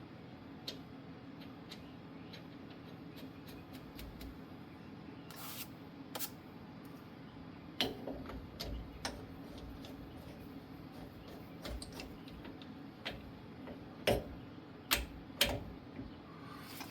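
Scattered light clicks and taps of small metal parts, the washer and nut going onto the axle's pinion yoke, handled by hand over a steady low hum. There are a few sharper knocks about eight seconds in and again near the end.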